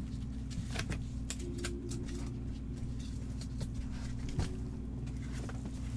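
Scattered light clicks and rustles of items being handled, with one slightly louder knock near the end, over a steady low hum.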